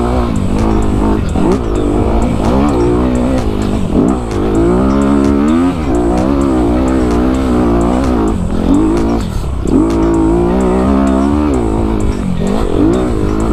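Honda CRF250RX dirt bike's single-cylinder four-stroke engine revving up and down continuously with the throttle, its pitch rising and dropping every second or two.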